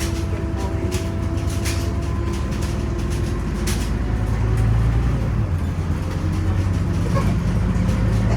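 Scania OmniCity city bus running along the road, a low engine drone with a steady driveline whine above it. There are a few sharp rattles in the first few seconds, and the drone grows louder about halfway through.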